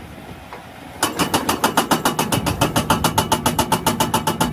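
Rock-breaker sound effect for a toy excavator: a rapid, even hammering pulse of about eight beats a second with a steady pitched ring through it, starting suddenly about a second in.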